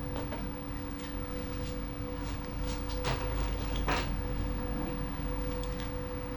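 A few small metallic clicks and taps as Cleko sheet-metal fasteners are squeezed and pulled out with Cleko pliers, the loudest two about three and four seconds in, over a steady low hum.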